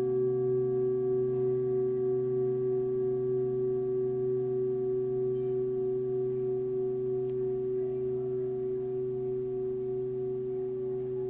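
A singing bowl ringing on in a long sustained tone of several pitches, with a slow wavering pulse, gradually fading.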